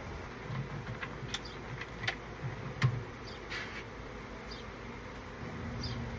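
Honeybee swarm buzzing, with several sharp clicks and knocks between about one and three seconds in, the loudest near three seconds.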